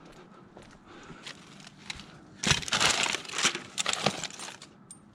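Crunching, crackling handling noise of items being rummaged through and moved, with a few light clicks first and a loud dense stretch of about two seconds in the middle.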